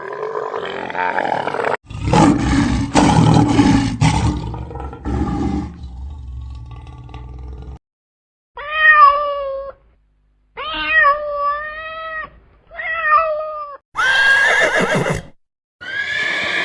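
A run of different animal calls cut back to back: a long, rough, low call, then three separate pitched calls of about a second each that bend up and down, then a short bright call near the end.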